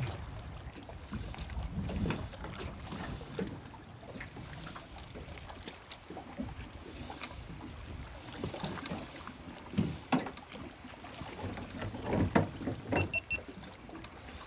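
Wind on the microphone and water lapping at a small boat's hull, swelling and easing every few seconds, with a few sharp knocks from gear in the boat in the last few seconds.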